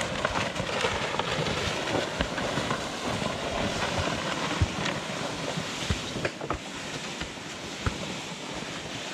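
Sled being dragged over snow: a steady scraping hiss with scattered short knocks.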